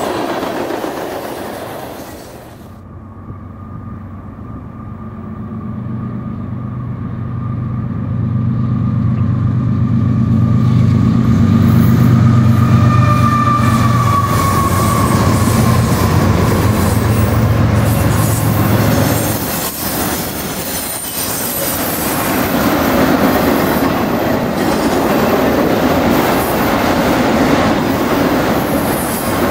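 Freight tank cars rolling past. After an abrupt change, diesel freight locomotives approach with a steady low engine drone that grows louder, and about 19 seconds in they give way to autorack cars rolling by with steady wheel-on-rail noise.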